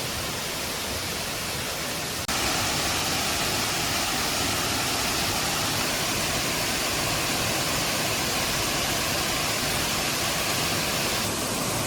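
Steady rushing noise with no distinct events. It breaks off for an instant about two seconds in and comes back a little louder.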